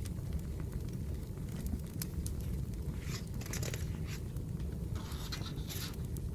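Burning firewood crackling: a steady low rumble with scattered pops, and two short bursts of scratchy noise about three and five seconds in.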